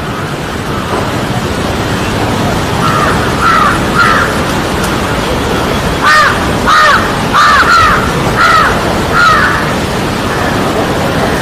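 Parrot giving harsh, repeated calls: three at about three to four seconds in, then a run of about six close together from about six to nine and a half seconds. Each call is a short arched note. A steady background hiss runs underneath.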